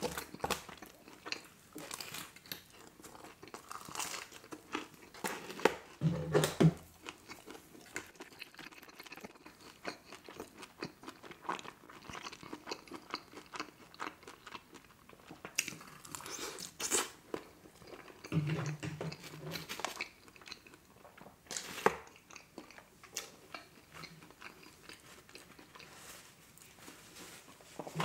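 Close-miked chewing, biting and crunching of pepperoni pizza and chili cheese fries. There are scattered clicks and crackles throughout, and a short closed-mouth hum twice.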